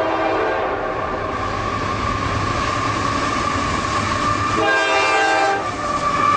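A freight train passing, its cars rumbling and rattling steadily, with the locomotive's air horn sounding: a blast fading out in the first half second and another of about a second near the end.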